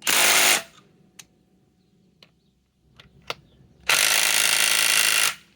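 Bosch GDS18V-330C cordless mid-torque impact wrench hammering in two bursts, a short one at the start and a longer one of about a second and a half near the end, with a few clicks between. It is trying to back out a large lag screw and fails to break it loose.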